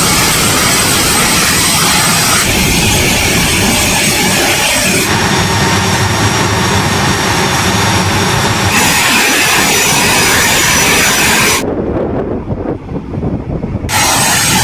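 Jet aircraft engine noise, loud and dense, with its character changing abruptly several times. For about two seconds near the end it turns muffled, losing its high end.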